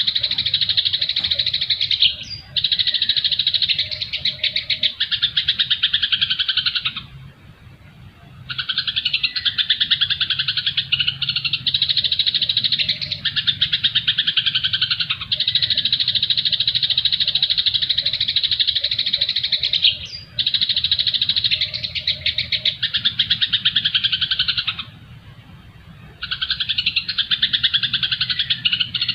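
Recorded songbird calls played as a tutor track: dense, very rapid chattering in long bouts, with two brief pauses. The same passage repeats about every 18 seconds, as a looped recording.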